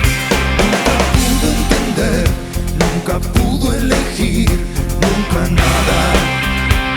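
Rock song recording: a band with drum kit, bass and guitars playing steadily through an instrumental passage.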